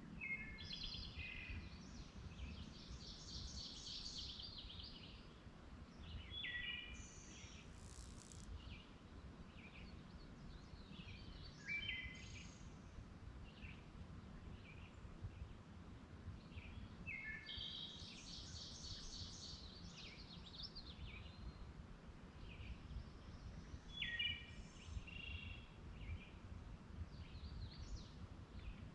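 Songbirds singing faintly, short phrases of quick high notes repeated every few seconds, over a steady low rumble.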